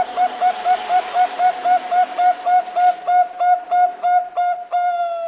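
Zebra dove (perkutut bangkok) calling: a rapid run of short, clear coo notes, about four a second, ending in one longer drawn-out note.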